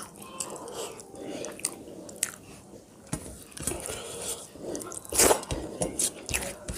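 A person eating rice and fish curry close to the microphone, chewing with wet mouth clicks, with one louder bite about five seconds in.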